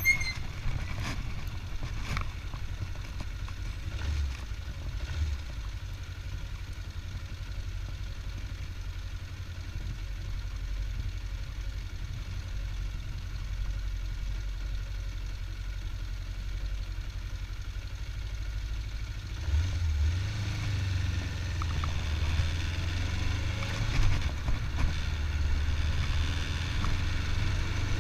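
A 25-year-old motorcycle's engine running during a ride, heard on board as a steady low rumble that grows louder about two-thirds of the way through.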